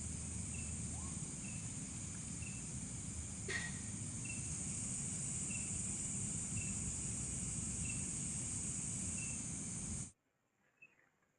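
Night insect chorus: a steady high-pitched buzz with a short chirp repeating about once a second, over a low rumble, with one sharp click about three and a half seconds in. It all cuts off suddenly about ten seconds in.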